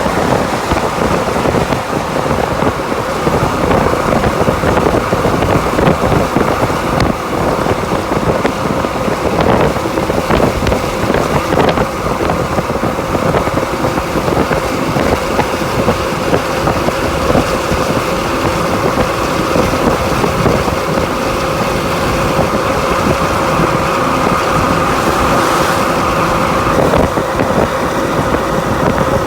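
Steady motor-vehicle engine and road noise, with a constant drone, starting and stopping abruptly.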